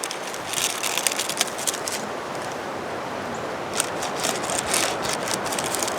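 Steady wind rushing with two bouts of crackling and rustling handling noise, one near the start and another around four to five seconds in.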